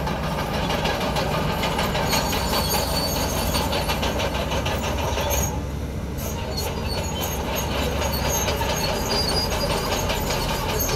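Komatsu crawler bulldozer at work: the diesel engine running steadily under the rapid, even clatter of its steel tracks, which eases briefly about halfway through.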